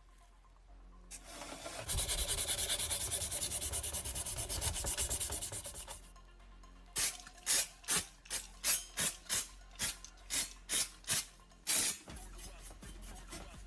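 Hand sanding of a small part: a run of quick, dense rubbing strokes. Then about a dozen slower, separate strokes, roughly two a second.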